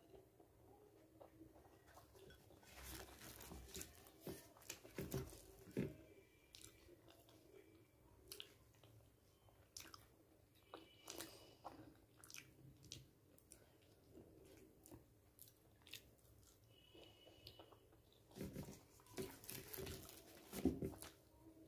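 Quiet close-up chewing and crunching of luchi, puffed deep-fried bread, dipped in chana dal, in irregular mouthfuls. A louder cluster of crackles comes near the end as a luchi is torn by hand and bitten.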